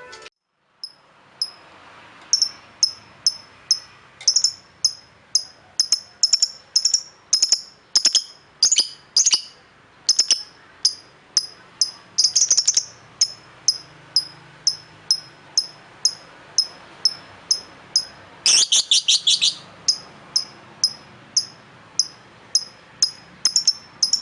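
A small bird giving short, high chirps over and over, about two to three a second, with a quick run of rapid chirps about two-thirds of the way through.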